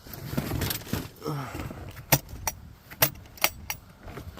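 Handheld label maker being handled and its keys pressed: a run of sharp, irregular clicks and small rattles.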